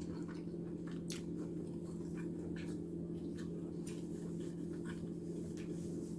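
Close-up chewing of a soft, cheesy stuffed zucchini boat: faint wet mouth clicks scattered through, over a steady low hum.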